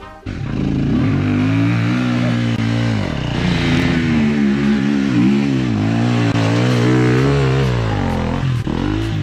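Enduro motorcycle engine revving up and down over and over as the rider works the throttle on a forest trail.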